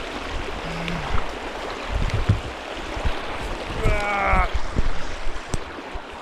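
A river rushing and splashing around someone wading across it, with irregular low thumps and knocks. A short, pitched cry is heard about four seconds in.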